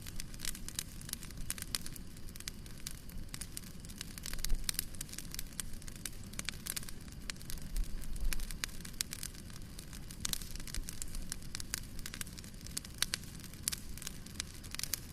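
Wood fire burning in a fireplace, with a steady low rumble of the flames and irregular sharp crackles and pops throughout.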